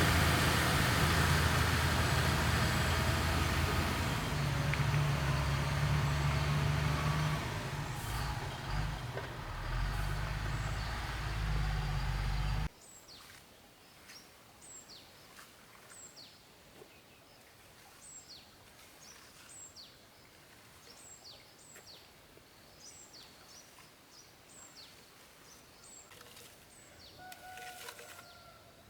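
A heavy engine running steadily with a deep hum, which cuts off suddenly about thirteen seconds in. Then small birds chirping, short high calls that slide downward, repeated about once a second.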